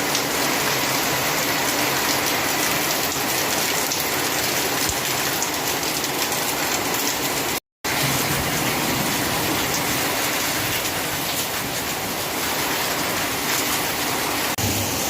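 Heavy rain falling in a steady, dense hiss. It cuts out for a split second about halfway through.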